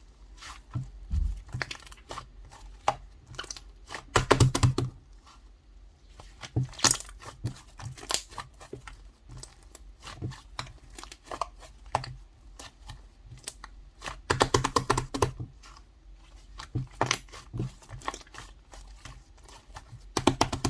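Clay slime being squished, pressed and stretched by hand, giving irregular sticky clicks and small pops. There are dense bursts of crackling about four seconds in and again about two-thirds of the way through.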